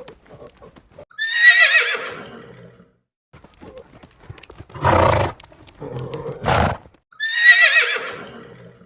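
Horse whinnying twice, about six seconds apart, each call starting high, wavering and falling away, with two short breathy bursts in between.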